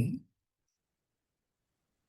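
A calm spoken voice ends a word in the first moment, then near-total silence with no room sound.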